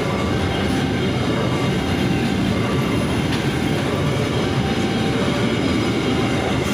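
A freight train of container flatcars rolling past: a steady rumble of steel wheels on the rails, with an occasional click from the wheels.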